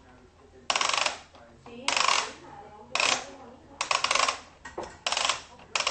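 Plastic crank on a toy truck being turned in repeated strokes, giving rapid ratcheting clicks in about six bursts, roughly one a second; the turning makes part of the truck extend.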